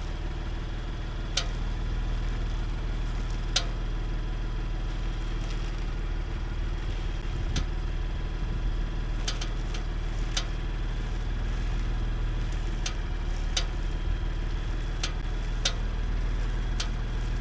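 BMW M4 idling with a steady low hum, over which come about ten short, sharp clicks or creaks at irregular intervals: the abnormal noise the car makes when the steering wheel is turned.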